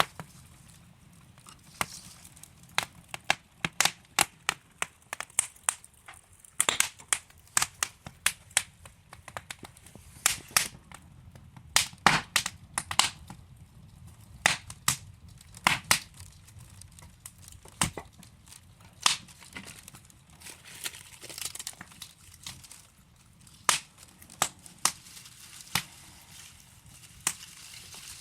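Wood fire of burning logs crackling in a fireplace: irregular sharp pops and snaps over a low steady hiss, busiest in the first half and thinning out toward the end.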